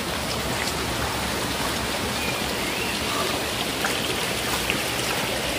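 Rocky forest stream rushing steadily over stones.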